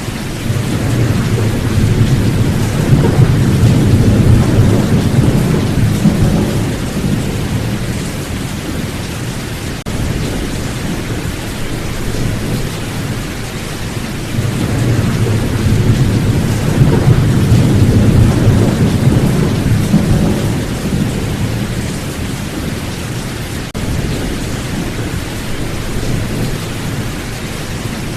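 Steady heavy rain with rolling thunder. Two long rumbles of thunder swell and fade, one starting a couple of seconds in and another a little past halfway.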